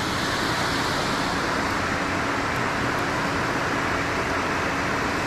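Steady rush of fast-flowing creek water below a dam, an even hiss that does not change.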